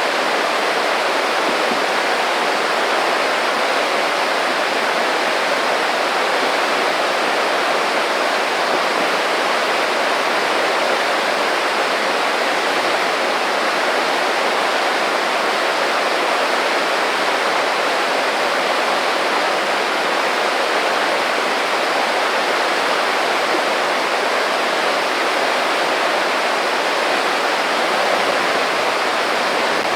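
Small creek babbling over stones in a steady, unbroken rush.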